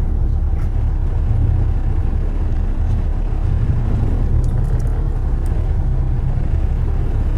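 Steady low rumble of car traffic on a city street.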